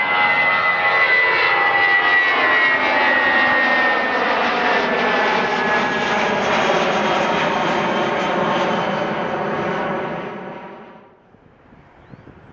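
Airbus A330-323's two Pratt & Whitney PW4170 turbofans at takeoff thrust, passing close by: a loud jet roar with a high whine and tones that slowly fall in pitch. The sound fades out about ten seconds in, leaving faint wind.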